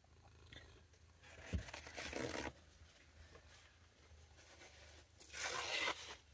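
Crinkly packaging being handled in two short bursts of rustling and crunching, one a little over a second in and one near the end, with a soft thump during the first.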